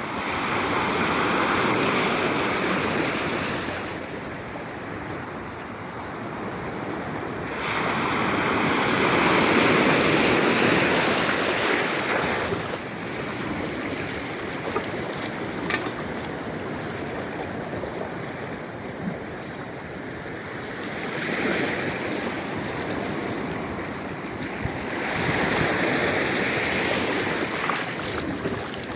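Black Sea waves breaking and washing on the shore, the surf swelling into louder surges about four times.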